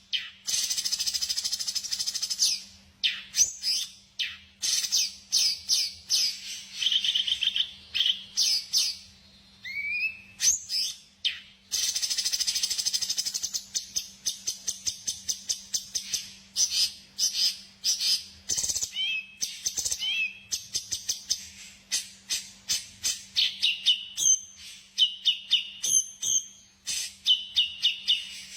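Songbird singing: fast, dense trills alternating with runs of sharp, separate chirps, with a faint steady low hum underneath.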